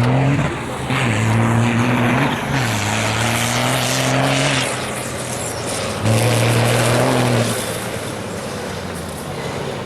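Trial truck's engine revving hard in repeated bursts. Three times it is held high for a second or two and then drops back, and it settles lower near the end.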